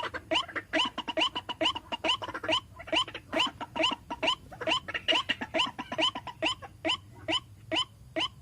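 White-breasted waterhen (ruak-ruak) calling: a rapid, unbroken series of short harsh 'kwak' notes, about four or five a second, spacing out a little toward the end. It is a lure call for attracting waterhens.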